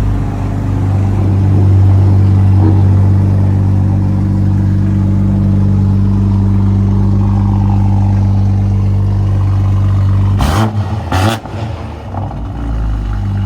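Car engine idling with a loud, steady low drone through an exhaust with a catless downpipe. Two short, sharp noises come near the end.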